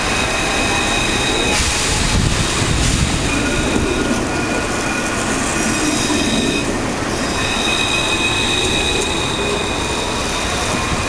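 Alstom Citadis tram running on its rails, a steady rolling rumble with high squealing tones that come and go over it.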